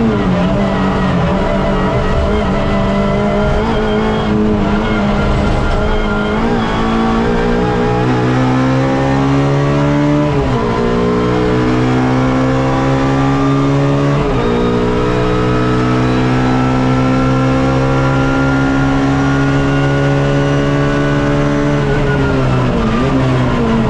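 Suzuki Swift race car engine heard from onboard, pulling hard through the gears: the pitch climbs, drops sharply at two upshifts about ten and fourteen seconds in, then climbs slowly for a long stretch in a tall gear. Near the end the pitch falls as the driver lifts off and brakes for a corner.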